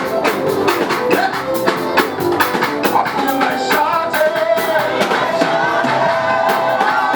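Live praise band playing upbeat music: drums and percussion keep a quick, even beat of about four hits a second under instruments and singing voices.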